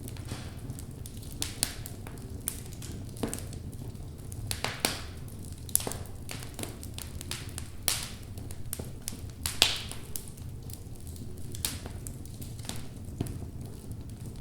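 Wood logs burning in a fireplace, crackling with irregular sharp pops and snaps over a steady low rumble of the fire. The loudest pop comes a little under ten seconds in.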